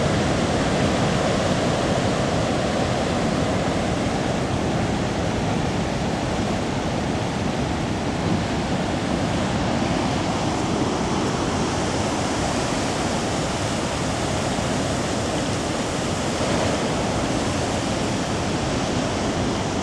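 Heavy storm surf from typhoon-driven rough seas breaking on a rocky coast, a continuous roar of waves with no single break standing out.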